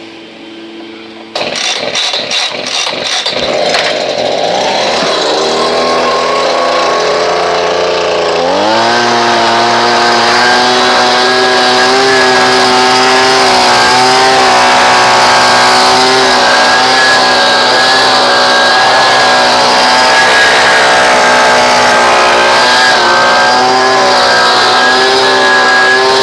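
Leaf blower running at low speed, then throttled up sharply about a second and a half in; its pitch climbs over the next several seconds and it settles at full speed, running steadily from about nine seconds.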